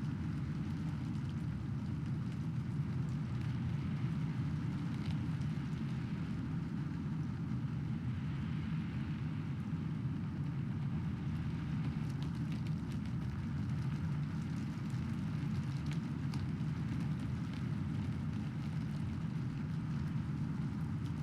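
Steady heavy rain with a low, even rumble beneath it and scattered drop ticks on top.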